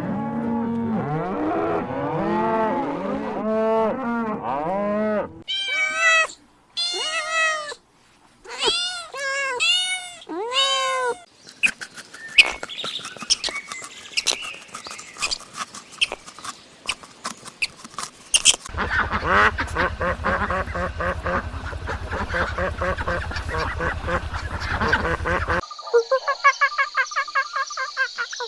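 A run of different animal calls, one kind after another, with no talking. First overlapping rising-and-falling calls, then bright separate calls with short gaps, a noisy stretch, a low buzzing sound, and a quick regular series of calls near the end.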